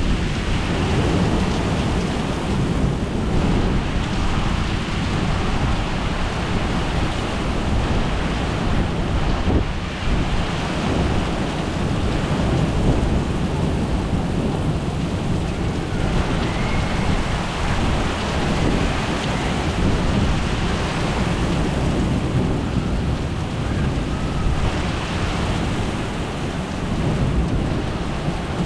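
Thunderstorm: rain falling steadily, with a continuous low rumble of thunder underneath.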